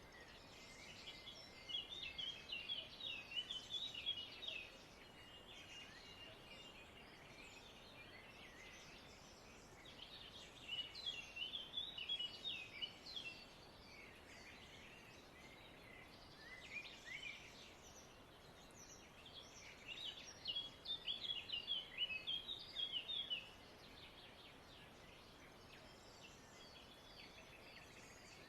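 Small birds singing in three bursts of rapid, high chirps and trills, each lasting a few seconds, with softer chirping between them.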